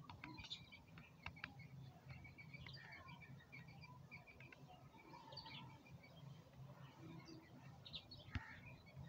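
Small birds chirping faintly in short, scattered notes, with a few soft clicks in the first couple of seconds.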